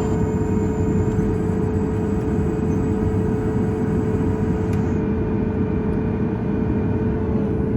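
Boeing 737 MAX 8's CFM LEAP-1B turbofan engines running at idle, heard inside the cabin: a steady rumble with a steady hum, and a faint high whine that stops about five seconds in.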